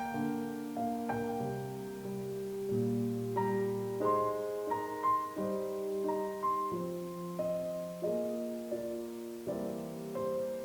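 Background piano music, gentle chords and notes changing every half second or so.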